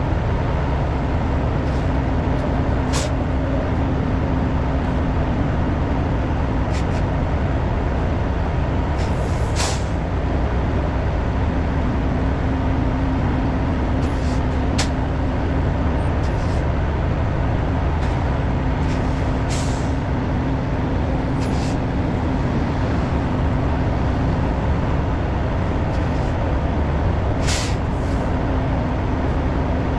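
Semi truck's diesel engine running steadily with a low drone while the rig backs into a dock door, with short hisses of air from the air brakes about eight times.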